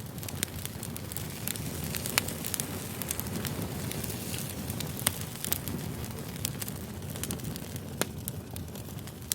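Campfire crackling: a steady low rush of burning wood with frequent sharp pops, a few of them louder and cracking out above the rest.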